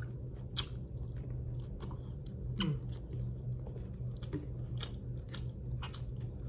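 Close-up eating sounds: a person chewing food with scattered sharp mouth clicks, over a steady low hum.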